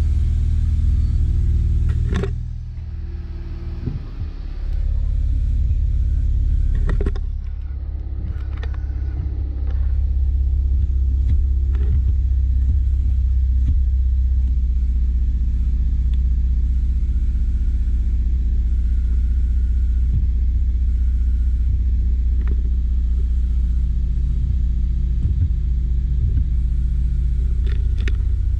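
Suzuki Jimny JB23's 660 cc turbo three-cylinder engine running with a steady low rumble, broken by a few sharp clicks or knocks. Its level drops briefly twice, around two and seven seconds in, then settles back.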